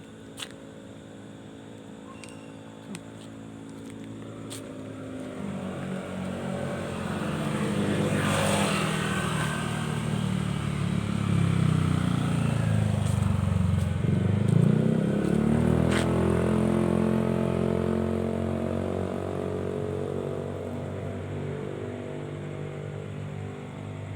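A truck engine running as the vehicle comes closer and louder, its engine pitch dropping to a low about two-thirds of the way through and then rising again as it pulls away and fades.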